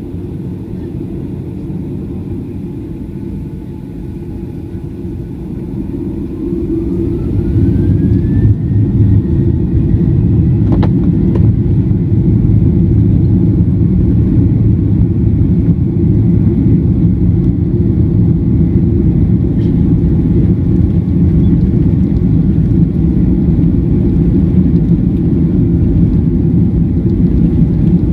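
Boeing 737-900ER's CFM56-7B jet engines spooling up to takeoff thrust. A whine rises in pitch over a few seconds as the rumble grows louder, then the engines hold a loud, steady rumble with a high tone, with a single sharp click about eleven seconds in.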